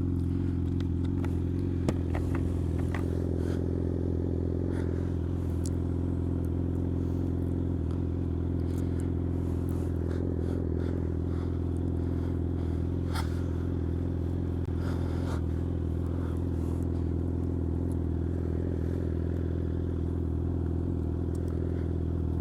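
Vehicle engine running at a steady, unchanging speed, with a few light clicks over it.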